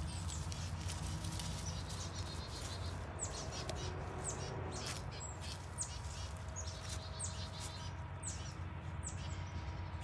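A small bird calling over and over, short high chirps that drop in pitch, about one or two a second from about three seconds in, over a low steady rumble.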